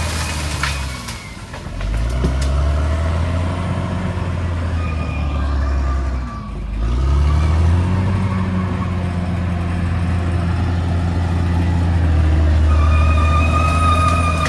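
Caterpillar D6R XL bulldozer's diesel engine working under load. Its pitch sags twice and picks back up, then rises about halfway through and holds steady at higher revs.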